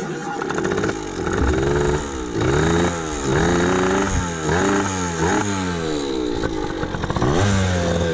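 Pit bike engine revving, its pitch climbing and dropping back about six times, as when a small motorcycle is accelerated through the gears.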